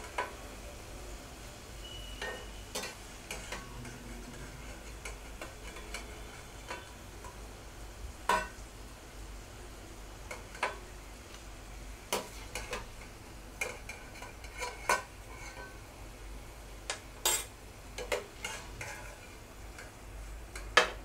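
Batter-coated okra strips sizzling softly in hot oil in a steel kadai, while a perforated skimmer stirs them and scoops the browned pieces out, with scattered sharp clicks where it knocks and scrapes against the pan.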